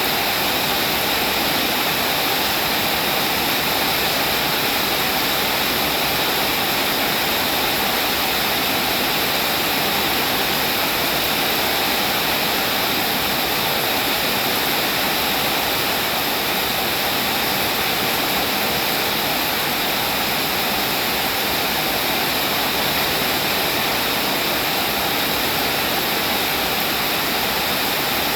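Steady rain falling: a dense, even hiss of water with no single drops or other events standing out.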